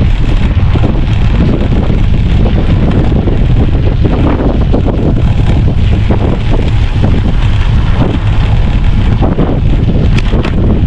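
Strong wind buffeting the microphone of a camera on a moving bicycle: a loud, steady, gusty rumble.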